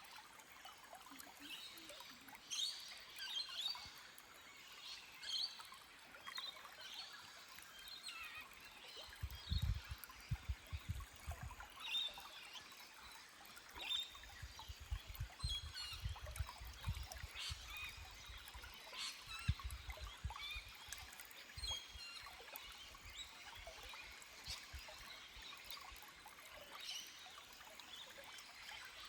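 Small forest stream trickling over rocks, with birds chirping short calls again and again. Bursts of low rumbling come and go through the middle stretch.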